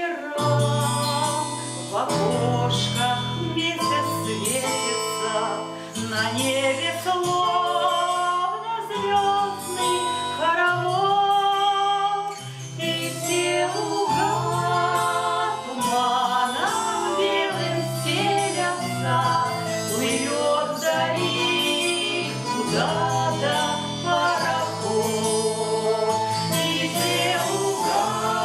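A vocal group singing a song with instrumental accompaniment, over a low bass line that changes note every second or two.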